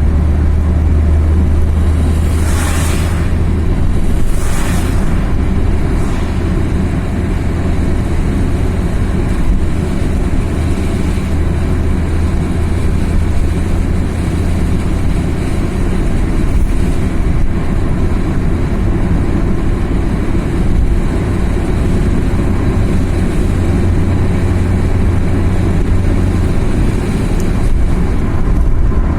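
Car driving on a mountain highway: steady low rumble of engine and tyres on the road, with two brief rushing swells of hiss about three and five seconds in.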